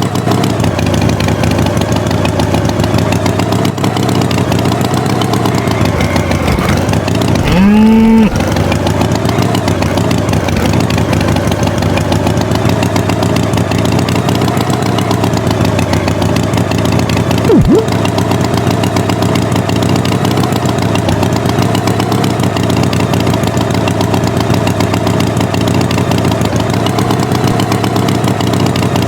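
Cartoon farm-tractor engine sound effect running steadily, its pitch wavering slowly. A short rising swoop comes about eight seconds in, and a brief sharp pop comes a little past halfway.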